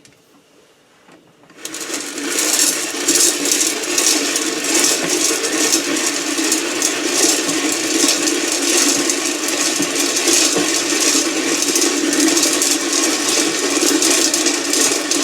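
Whirley Pop stovetop popper's hand crank being turned, starting about a second and a half in: the stirring arm sweeps the unpopped kernels around the pan bottom with a steady rattling scrape, before any kernels pop.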